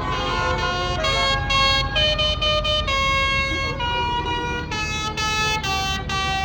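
A tune of held notes stepping up and down in pitch, with a buzzy, horn-like tone, played from a passing Christmas tractor, over the steady low rumble of tractor engines.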